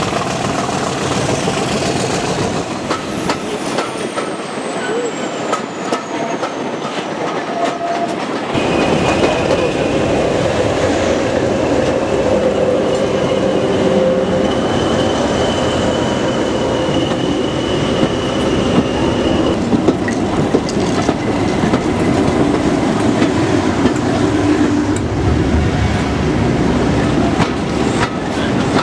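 Heritage train coach running along the track, its wheels clattering over the rail joints, heard from an open carriage window. About 8.5 s in it gets louder and heavier as a green diesel locomotive and its train of coaches pass close alongside, with a steady squeal between about 12 and 19 s.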